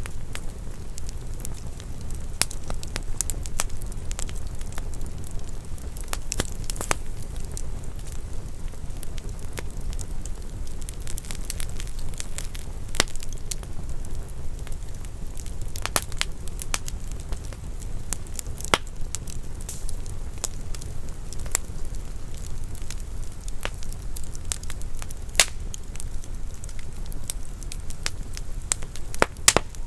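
Wood fire burning in a fireplace: a steady low rumble of flames with irregular sharp crackles and pops from the burning logs, a few louder pops among them.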